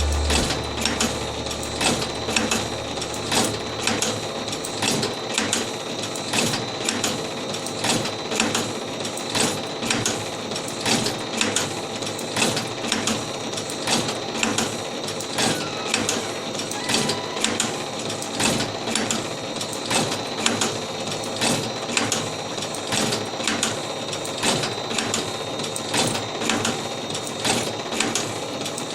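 Automatic cigarette filling machine running: a steady motor whine with a clatter of its mechanism repeating roughly once a second as it cycles.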